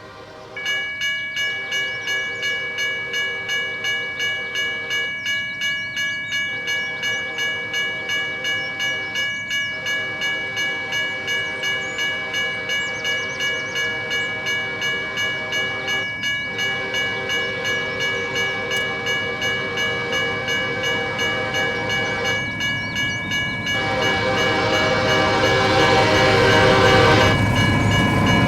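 CSX freight locomotive's horn sounding long blasts with short breaks as the grain train approaches, over a high ringing that pulses about twice a second, typical of a grade-crossing bell. The noise of the train grows louder near the end as it draws close.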